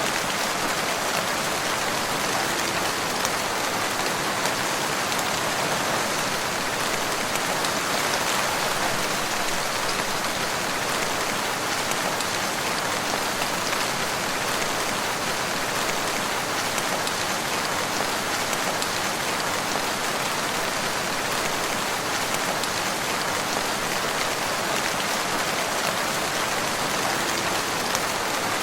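Steady rain falling on a wood, an even hiss of many drops with no thunder.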